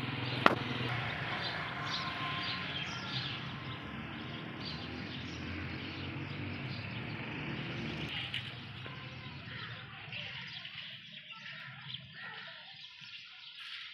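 Outdoor background noise with a low steady hum and short bird chirps, and a sharp click about half a second in; the background drops off after about eight seconds, leaving scattered chirps.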